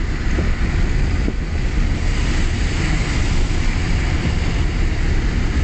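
Steady wind and road noise inside a moving car, with heavy low rumble and wind buffeting the phone's microphone.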